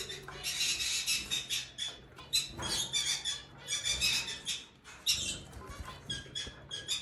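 Zebra finches calling in rapid, short, high chirps, with light splashing as they bathe.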